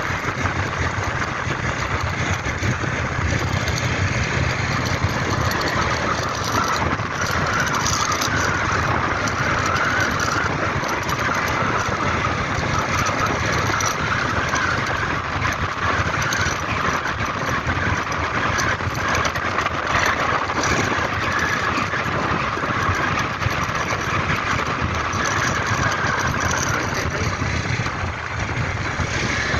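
A vehicle running on the road: a steady mix of engine and road noise that does not let up.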